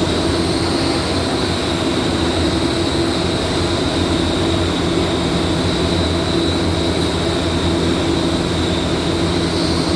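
Steady machine noise with a high whine that starts at once and cuts off near the end, over a constant low hum.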